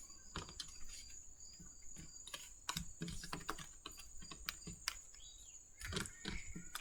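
Tarot cards being shuffled and handled: a faint, irregular run of soft clicks and taps, over a steady high thin whine in the background.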